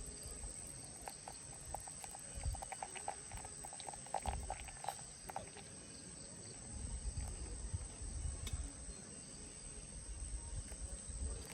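Insects, crickets among them, keep up a steady high-pitched drone, with a run of short chirps in the first half and low rumbles coming and going underneath.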